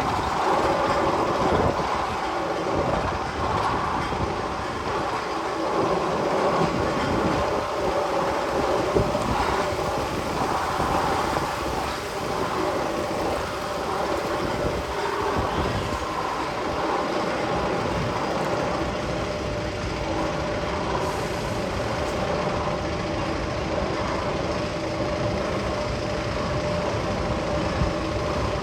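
Sound effect playing through loudspeakers in the Magnum XL 200 roller coaster's tunnel: a steady rail-like rumbling noise with a few held droning tones over it.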